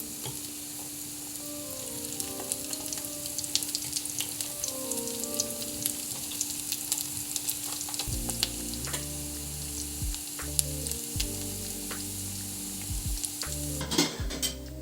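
Food frying in a pan, a steady sizzling hiss peppered with crackling pops, with a few louder clatters near the end.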